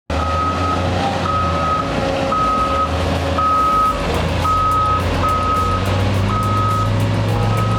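Heavy vehicle's reversing alarm beeping about once a second over a steadily running engine.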